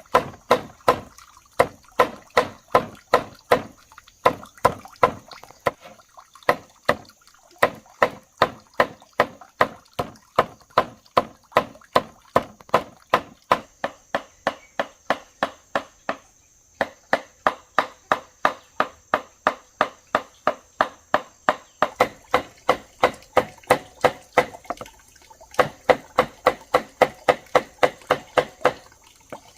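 Steady rhythmic chopping, about three strokes a second, each a sharp strike, broken by a few short pauses.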